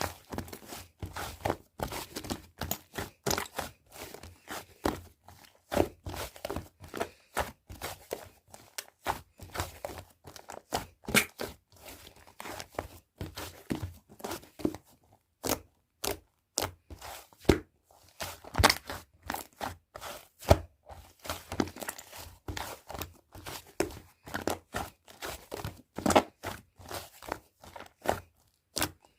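Slime being squished and pressed by hand, making dense, irregular clicking and crackling pops.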